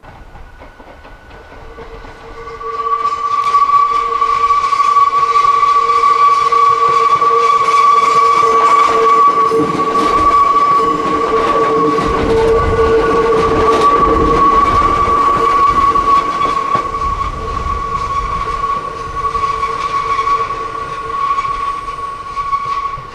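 A Hakone Tozan Railway train running past, its rumble swelling a few seconds in and fading at the very end. Two steady high ringing tones sound throughout.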